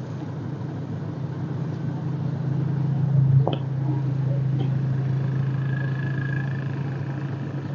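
A steady low engine hum, like a motor vehicle running, that grows louder over the first three seconds and then holds steady, with a short click about three and a half seconds in.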